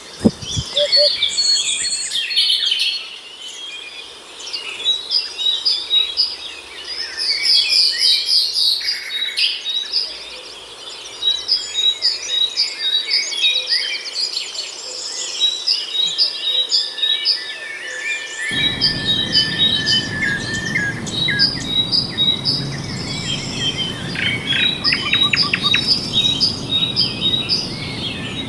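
A dawn chorus of several songbirds chirping, trilling and whistling, with one bird repeating a short high note over and over. About two-thirds of the way through, a steady low rushing noise joins underneath the birds.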